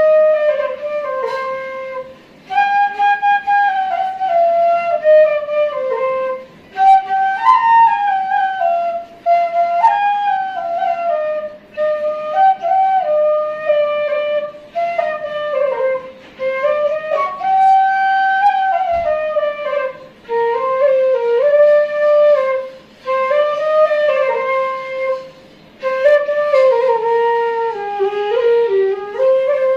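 Background music: a solo flute playing a slow melody in phrases, with short pauses between them.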